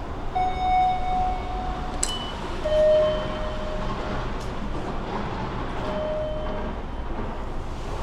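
Kintetsu Suzuka Line train sounds: a steady low rumble with three short, clear tones, the first held for over a second, two shorter, lower ones around three and six seconds in, and a sharp click about two seconds in.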